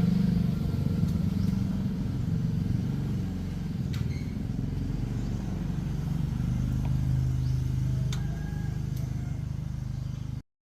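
A motor vehicle's engine running steadily, its pitch settling a little lower about halfway through, with a few light clicks; the sound cuts off abruptly near the end.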